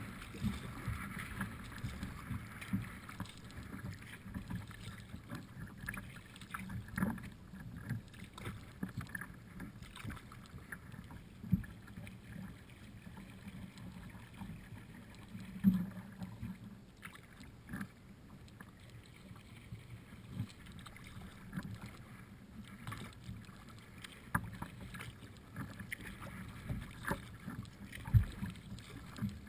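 Kayak being paddled on the water: continuous water and paddle noise against the hull, with scattered sharp knocks.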